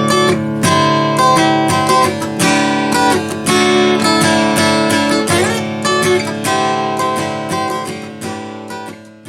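Acoustic guitar playing a picked and strummed melody over chords, the notes dying away near the end.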